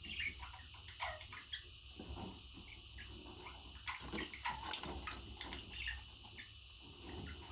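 Pet parrot chattering softly: scattered short chirps, squeaks and clicks, with no clear words.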